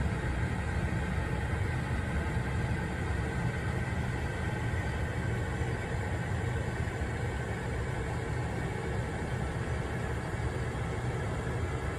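Steady low vehicle rumble: engine and road noise from a moving or idling motor vehicle, with no sudden impacts.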